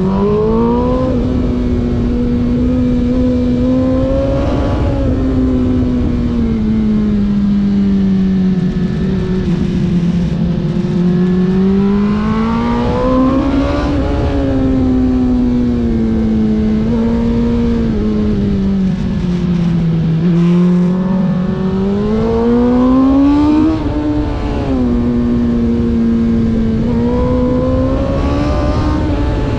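Racing engine heard onboard at speed, its pitch climbing and falling in long sweeps as it accelerates and backs off, with the highest peaks around 4, 13 and 23 seconds in, over a steady rush of wind.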